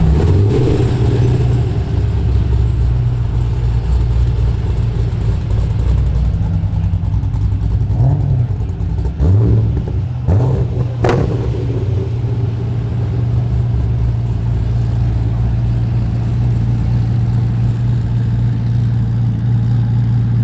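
Car engine idling steadily, blipped briefly a few times around the middle, with one sharp click just after the blips.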